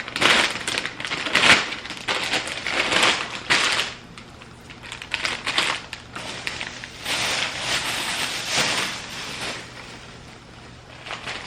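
Plastic food packaging crinkling and rustling in irregular bursts as raw chicken breasts are handled, with quieter gaps between.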